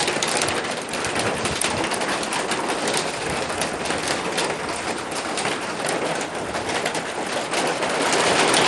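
Heavy rain falling steadily, with a dense stream of drops striking a corrugated metal roof close by.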